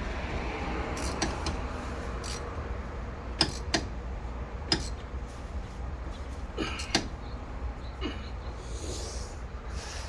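Scattered sharp clicks and clinks of a wrench working a new spark plug down into the Dodge HEMI V8's cylinder head, about seven in all, over a steady low background rumble.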